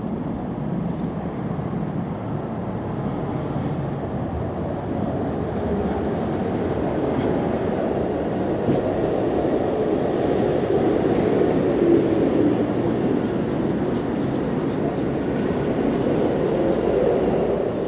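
Tram running on its rails: a steady low rumble of wheels and motors that builds gradually, loudest around the middle and again near the end.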